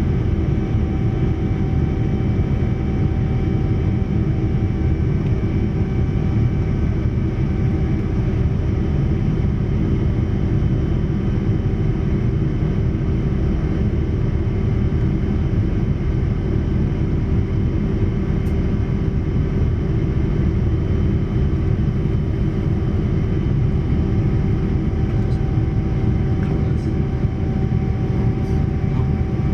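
Steady cabin noise of a Boeing 787-9 in flight: a deep, even rush of engines and airflow, with a few faint steady tones running through it.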